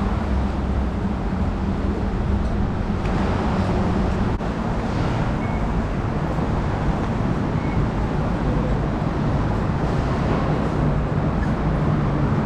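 Steady ambient rumble of a metro station with a low hum, with no distinct events; two faint short high tones sound about five and eight seconds in.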